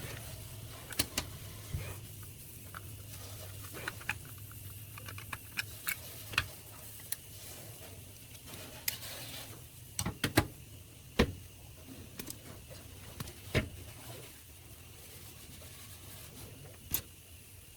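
Scattered light clicks and knocks at an irregular pace over a faint low hum, typical of small tools and parts being handled on a workbench.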